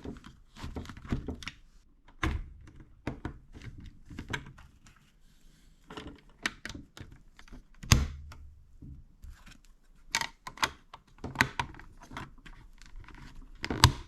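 Plastic building bricks clicking and knocking as pieces of a brick-built train model are handled and pressed together: irregular small clicks, with louder knocks about two seconds in, around eight seconds and near the end.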